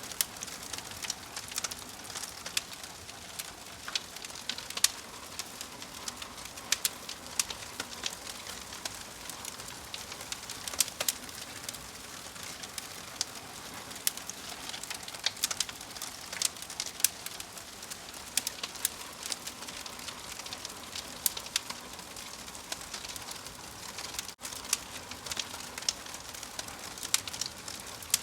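Wood fire crackling: frequent irregular sharp pops and snaps over a steady soft hiss.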